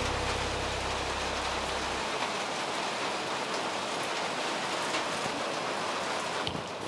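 Steady rushing noise of water, like rain or surf, with a low steady hum that stops about two seconds in.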